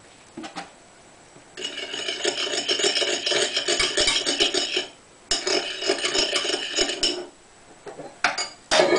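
A fork beating eggs, milk and seasoning together in a microwave egg cooker: rapid scraping strokes in two spells of a few seconds each with a short break between, then a few separate clicks near the end.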